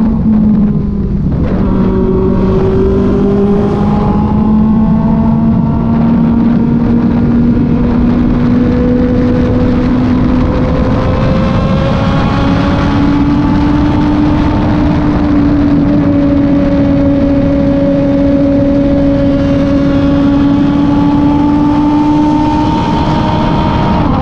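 Kove 450 Rally's single-cylinder motorcycle engine running under way, with wind and road rush over it. Its pitch dips about a second in, climbs slowly, then steps up and holds steady, easing off slightly near the end.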